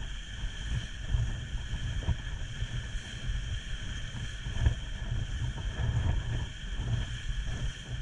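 Wind buffeting the microphone in uneven gusts during a fast boat ride on open water, over a steady high whine.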